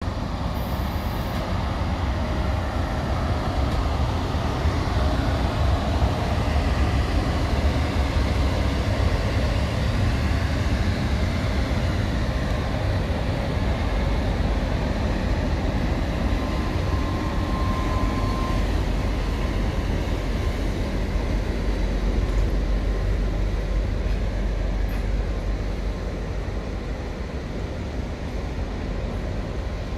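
Passenger train rolling past, double-headed by a ChS200 electric locomotive and a TEP70BS diesel locomotive: a steady heavy rumble as the locomotives pass, then the coaches rolling by. A brief high tone comes about halfway through, and the noise eases slightly near the end.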